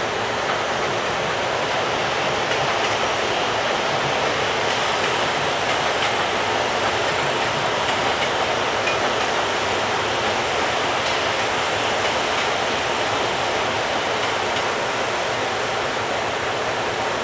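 Freight container train moving past on its departure, its wheels running on the rails with a steady, even noise.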